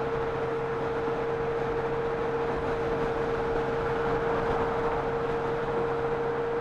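Honda Gold Wing motorcycle riding at a steady speed: an even rush of running noise with one constant whining tone through it.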